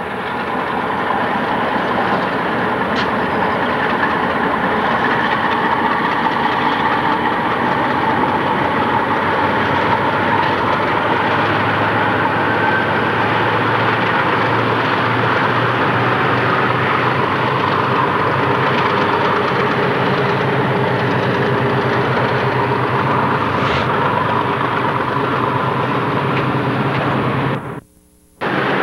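Conrail diesel freight locomotives working under load, a steady engine rumble that is strongest through the middle, with the freight cars rolling over the rails. The sound cuts out briefly just before the end.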